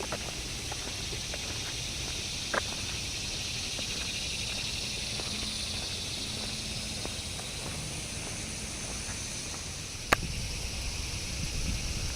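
Steady, high-pitched insect drone in summer woods, swelling slightly in the middle, over a low rumble on the microphone. A sharp click about two and a half seconds in and another near the end.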